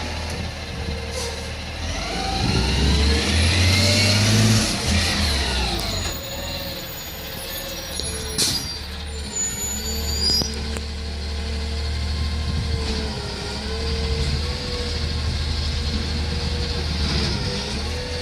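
Garbage truck's diesel engine running, revving up and back down for a few seconds about three seconds in, with a short air-brake hiss a little past the middle.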